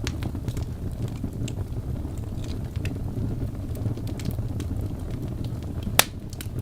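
Wood fire burning in a fireplace: a steady low rumble of flames with scattered crackles, and one loud pop about six seconds in.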